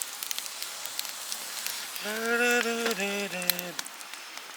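Wood fire of damp firewood crackling with scattered sharp pops. A person's voice sounds briefly in the middle.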